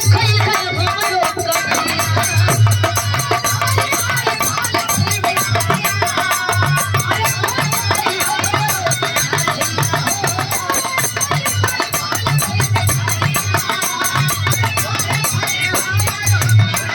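Bhojpuri birha folk music with a steady drum beat under a wavering melody line.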